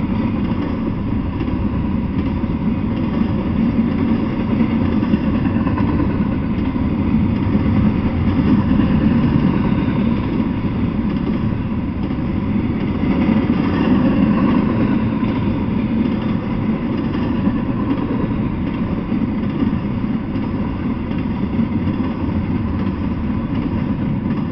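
Double-stack intermodal freight train of container well cars rolling past: a loud, steady noise of steel wheels on the rails, heaviest in the low range.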